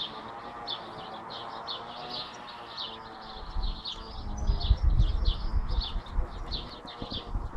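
A small bird chirping over and over in short, high notes, a few a second, over a steady low hum. From about halfway through, a low rumble gets louder than the chirps.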